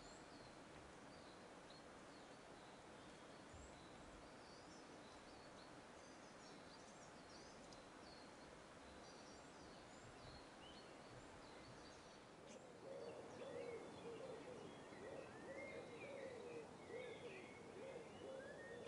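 Faint wild birdsong: many small, high chirps and twitters over a soft background hiss. About two-thirds of the way in a lower, louder call joins, a run of short wavering notes repeated many times.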